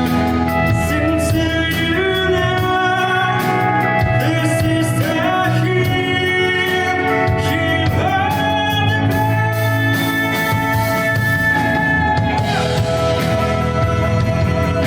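Live rock band playing: drums, bass and guitars under a melody of long held notes that bend between pitches, with one note held for about three seconds near the end before it drops.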